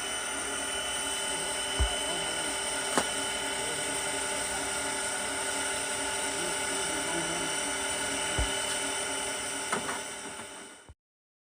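A small multirotor FPV drone's electric motors whining steadily, with a few brief knocks; the sound fades and cuts off shortly before the end.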